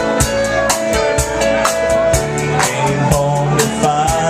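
Live rock band playing a song: a drum kit keeps a steady beat under guitar and held melody notes, loud throughout.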